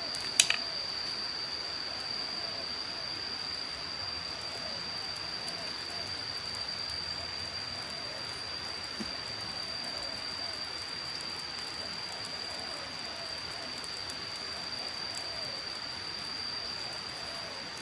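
Forest ambience: a steady rain-like hiss with a continuous thin high-pitched tone over it, and a single sharp click about half a second in.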